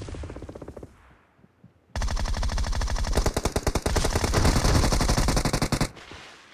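Automatic gunfire in a shooter video game. A loud shot dies away in the first second, then a rapid, continuous burst of fire starts about two seconds in, lasts about four seconds and stops suddenly.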